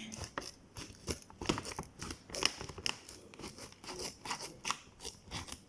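Scissors cutting open a plastic snack packet: a string of short, irregular snips.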